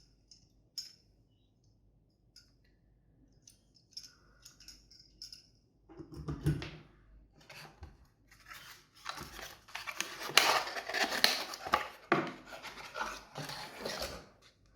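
Hands handling the packaging of a boxed desktop processor: scattered light clicks and taps at first, then, about six seconds in, a longer stretch of rustling and scraping of the packaging that grows busier toward the end.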